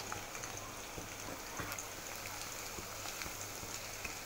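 Diced potatoes and curry leaves frying in hot oil, a steady sizzle with faint scattered crackles.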